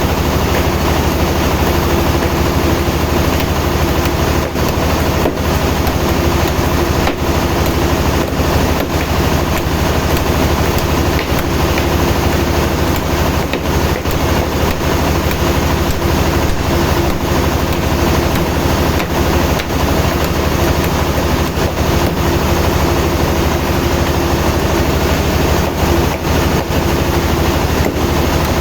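Sawmill machinery running with a steady, loud engine drone that holds an even pitch.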